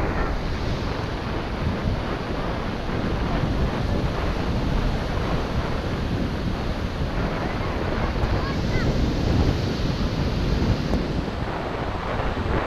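Ocean waves washing onto the beach, with wind buffeting the microphone.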